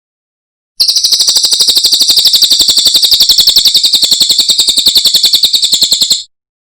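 A cililin bird singing a rapid, high-pitched trill of evenly spaced notes, about a dozen a second. The trill starts about a second in, holds steady for about five seconds, and stops abruptly.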